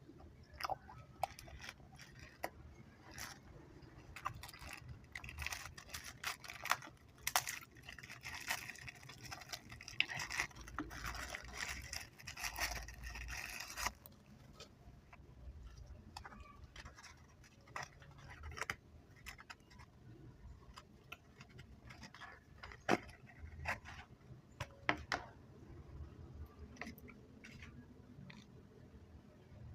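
Close-miked handling and eating of chewy chocolate snacks: scattered sharp clicks and crinkles, with a dense stretch of crackling from about five to fourteen seconds in.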